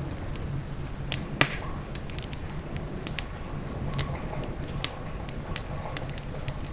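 Wood fire crackling, with irregular sharp pops and snaps, the loudest about a second and a half in, over a steady low rumble.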